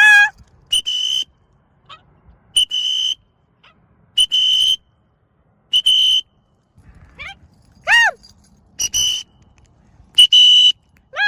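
A whistle blown in short, steady, high blasts, about six in all, roughly one every second and a half, as a recall signal to a free-flying bird. Between the blasts come a few loud, harsh macaw calls that rise and fall in pitch.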